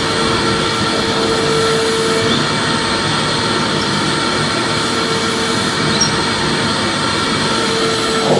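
Vacuum cleaner running steadily, an even rushing motor noise. A steady hum in it fades out for a few seconds midway and then returns.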